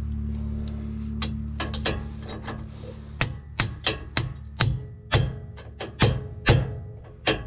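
Hammer blows driving a bearing race into a differential housing: a few light taps, then from about three seconds in steady, sharp metal strikes about two a second, each with a short ring.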